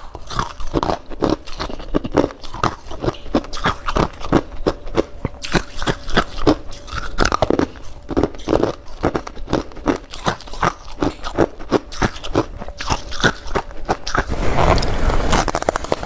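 Close-up crunching of humidifier frost being bitten and chewed: quick crackling crunches several times a second, growing denser and louder near the end.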